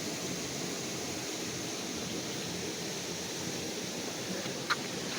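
Steady, even outdoor rushing noise, with one short click near the end.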